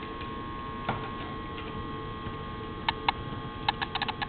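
Steady electrical hum with scattered light clicks, several coming close together near the end.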